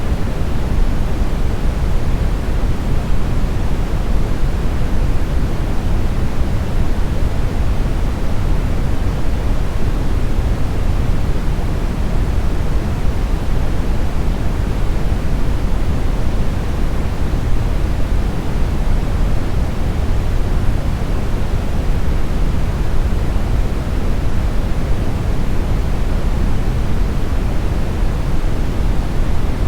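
Smoothed brown noise: a steady, deep rushing hiss with most of its weight in the low end, unchanging throughout.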